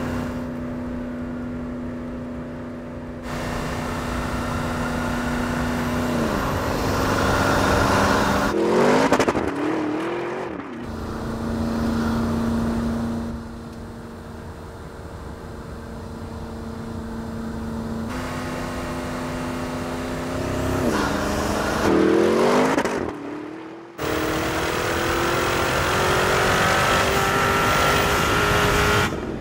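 Porsche Cayenne Turbo GT's twin-turbo 4.0-litre V8 running through its sport exhaust as the car is driven. Steady cruising stretches alternate with several pulls where the revs climb, and the sound changes abruptly where shots are cut together.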